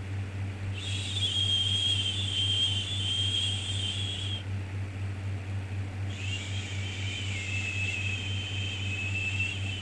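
A person's long 'shhh' shushing sound for soothing a baby, repeated: two shushes of about three and a half seconds each with a pause between, over a steady low rumble.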